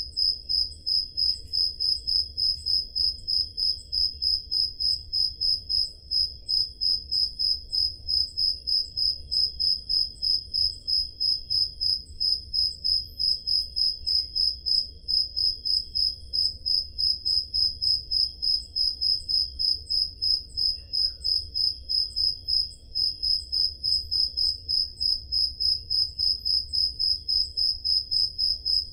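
Crickets chirping: one loud, high-pitched chirp repeats in a fast, even pulse throughout, with fainter, lower chirping from other crickets behind it.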